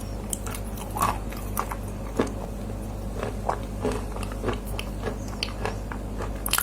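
A person biting and chewing dry clay close to the microphone: irregular crisp crunches about every half second, the loudest about a second in, just after two seconds and near the end.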